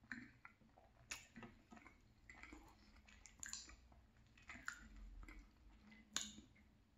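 Faint close-miked chewing of a mouthful of moist marble cake: soft wet mouth smacks with a few sharp clicks scattered through.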